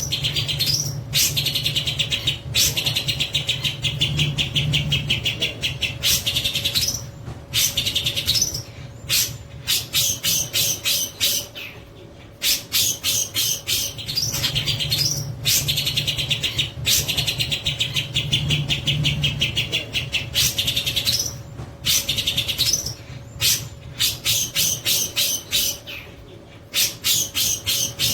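Long-tailed shrike (cendet) singing in long bouts of rapid, high chattering notes, broken by short pauses, over a faint steady hum.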